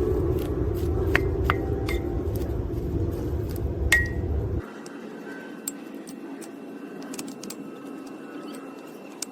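Several light clinks of glass or metal tableware, each with a short ring, over a steady low noise. About four and a half seconds in, the low noise cuts off abruptly, leaving a quieter background with faint ticks and clicks.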